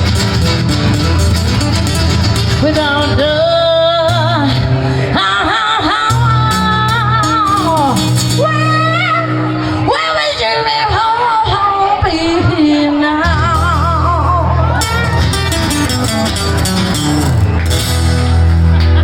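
Live band music with a singer's voice: long vibrato vocal lines over sustained bass notes and guitar.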